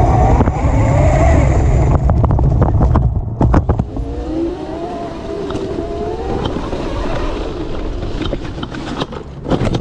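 Modified 72-volt electric dirt bike's motor whining, its pitch rising and falling as the rider speeds up and eases off, under heavy wind buffeting on the microphone that is loudest for the first few seconds. Several sharp knocks come between about two and four seconds in.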